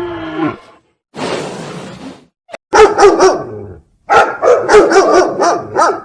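Dog barking: a short run of barks about three seconds in, then a longer, quicker run of barks. A short pitched call at the very start and a noisy, breathy stretch come before them.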